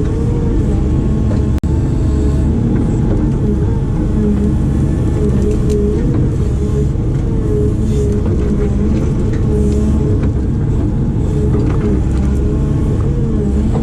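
Heavy construction machine's diesel engine running steadily with a slightly wavering pitch, with one split-second dropout in the sound about one and a half seconds in.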